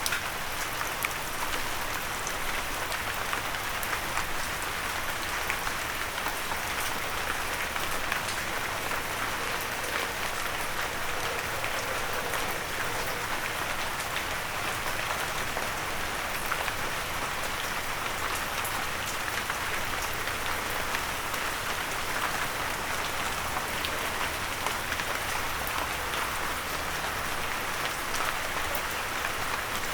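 Steady rain with many small drops pattering on a windowsill, an even hiss with close, distinct drop hits throughout.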